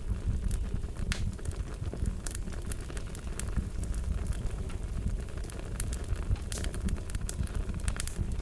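Wood fire crackling: a steady low rumble of burning with frequent sharp pops and snaps scattered irregularly throughout.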